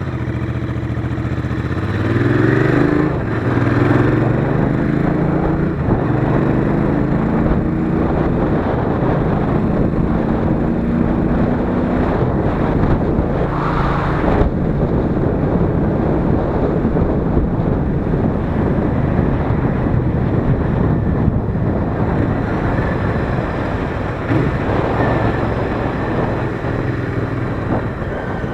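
Royal Enfield Interceptor 650's 648 cc parallel-twin engine under way. It pulls away with its pitch rising and drops twice in quick succession on gear changes. It then climbs slowly under steady acceleration and runs on at speed before settling to a lower, steady note near the end.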